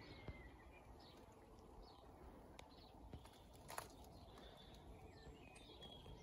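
Near silence: faint garden ambience with distant birds chirping now and then, and a faint click about four seconds in.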